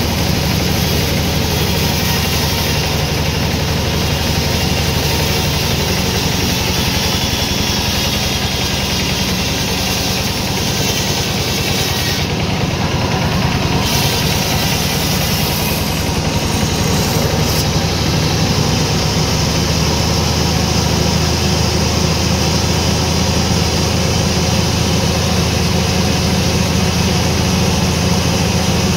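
Sawmill machinery running: a steady, loud engine-like drone with no breaks, its low tone shifting slightly about two-thirds of the way through.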